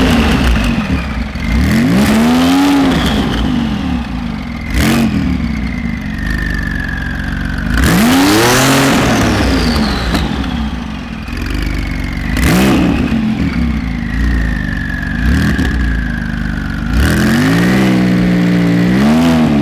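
High-performance car engine revved hard in neutral, about six separate blips that each rise and fall in pitch, the longest near the end. A few sharp cracks come between the revs.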